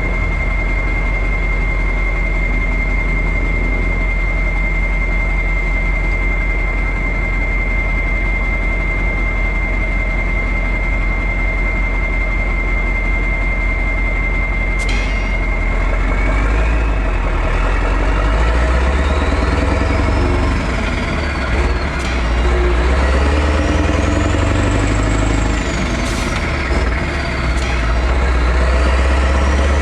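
Straight-piped V8 diesel truck engine running steadily with a constant high whine, then about halfway through it is opened up: the engine gets louder and its whine climbs and falls several times, with short dips in between like gear changes.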